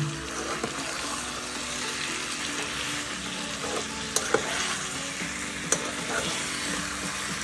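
Chicken curry sizzling in a pan as it is stirred with a ladle, with a few sharp clicks of the ladle against the pan a little past halfway.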